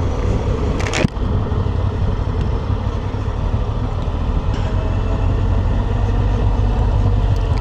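Honda Transalp's 755 cc parallel-twin engine running steadily as the motorcycle is ridden slowly, with a single sharp knock about a second in.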